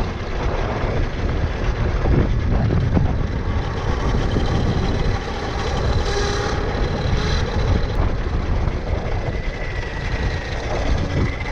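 Wind buffeting a helmet-mounted microphone and rolling noise while riding a Tuttio Soleil electric dirt bike, with a faint steady motor whine now and then.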